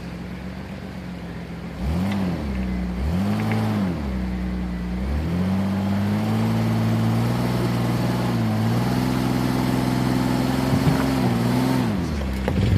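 A vehicle engine revving: two quick rises and falls in pitch, then climbing and holding at higher revs for several seconds with brief dips, settling lower near the end.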